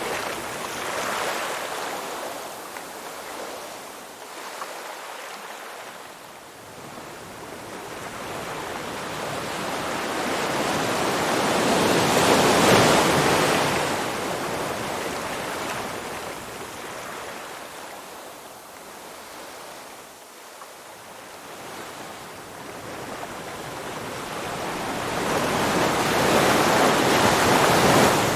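Ocean surf: waves washing in and drawing back in slow swells, one rising to a peak about halfway through and another near the end.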